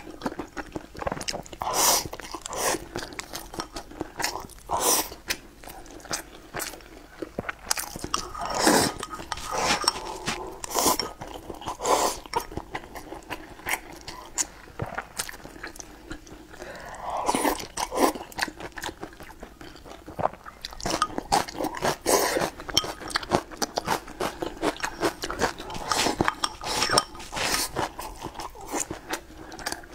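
Close-miked eating: a person chewing mouthfuls of rice and braised food, with many short, irregular clicking mouth sounds.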